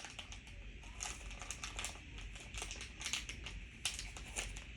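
Plastic candy wrapper crinkling and crackling in the hands in quick, irregular little clicks as the packet is handled and torn open.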